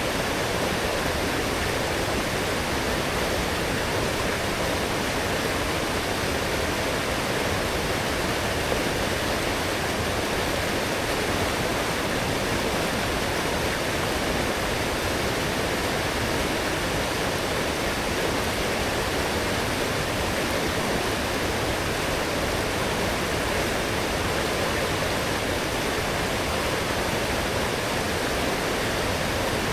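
Fast, full forest stream swollen after heavy rain, water rushing steadily over its bed without a break.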